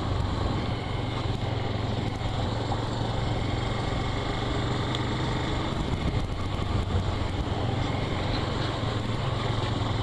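Motorcycle engine running at a steady cruising speed while riding, with wind rushing over the microphone.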